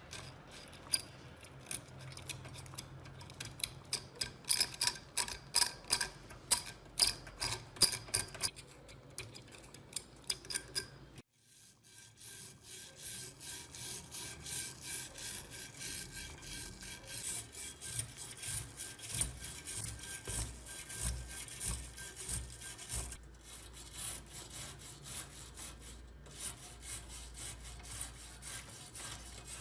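Hand scraping or sanding on rusty metal in repeated strokes. The first stretch has quick, sharp strokes; after a break near eleven seconds, steadier rubbing strokes follow at about two a second.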